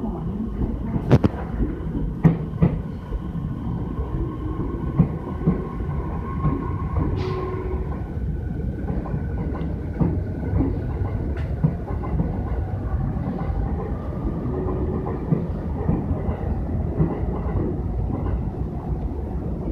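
Electric commuter train running alongside a station platform: a steady low rumble from the cars, with sharp clacks of wheels over rail joints, several in the first few seconds.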